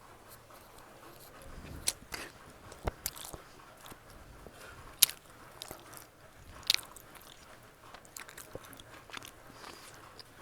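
Close-up eating sounds: someone biting into and chewing a beef momo dumpling, with a few sharp clicks and smacks, the loudest about two, three, five and seven seconds in.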